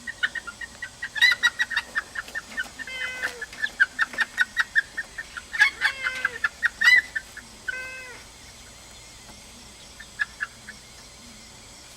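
Icelandic chickens clucking in agitation: a rapid string of short, sharp clucks for about eight seconds, then only a few scattered clucks. The hens are alarmed by a cat prowling near their pen.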